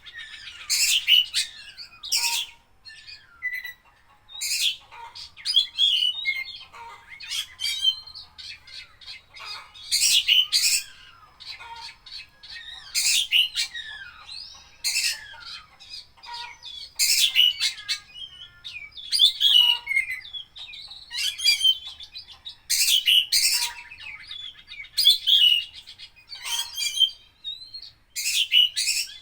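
Oriental magpie-robin singing a loud, varied song: bursts of sharp, rapid notes and whistled phrases every second or two, with quieter chattering in between. The song is full of imitations of other birds' calls.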